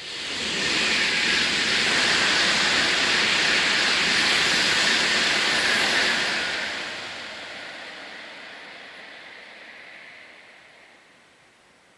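Tokaido Shinkansen high-speed train passing through at speed. Its rushing noise of air and wheels builds within the first second, stays loud for about six seconds, then fades away.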